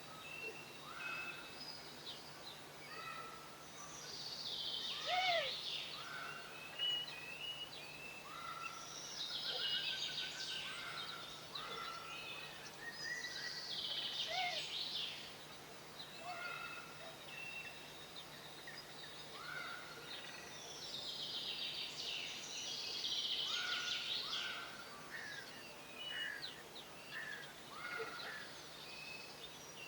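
Garden songbirds calling and singing: repeated short rising call notes throughout, with bursts of fast twittering song every few seconds.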